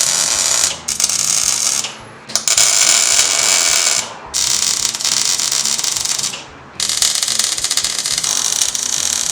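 Welding arc crackling and hissing in a series of beads, each lasting one to two seconds with short pauses between, as engine mounts are welded into a car's frame.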